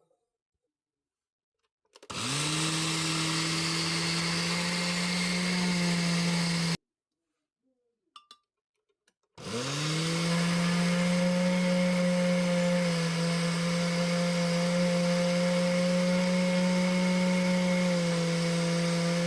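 Electric blender motor grinding rice into flour. It spins up with a rising whine, runs steadily for about five seconds and cuts off. After a few light clicks it starts again and runs steadily, its pitch shifting slightly now and then.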